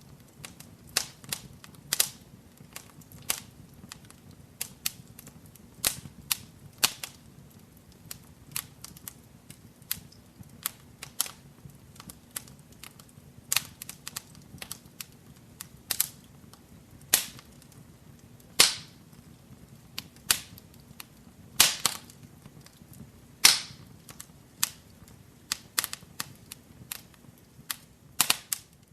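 Wood fire crackling in a fireplace: irregular sharp pops and snaps, a few each second, some much louder than the rest, over a soft low bed of burning.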